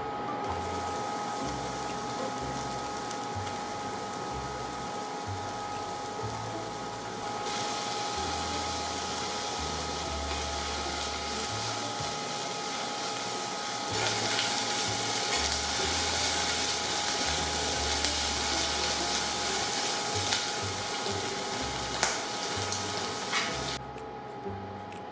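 Seaweed and sliced green onion sizzling in hot sesame oil in a stainless steel saucepan, stirred with chopsticks that click against the pot a few times near the end. The sizzle gets louder in steps, loudest from about halfway through, then drops sharply just before the end as water goes in. Quiet background music plays under it.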